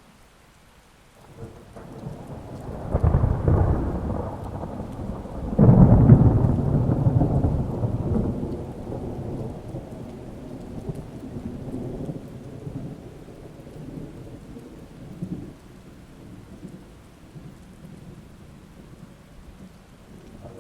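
Thunder rolling over steady rain. A rumble builds about a second in, a louder crack comes a few seconds later, and then a long low rumble fades slowly under the rain.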